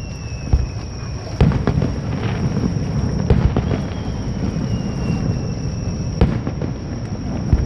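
Aerial fireworks shells bursting, with a series of sharp bangs over a continuous low rumble. A long whistle, falling slightly in pitch, ends in a loud bang about a second and a half in, and another does the same about six seconds in.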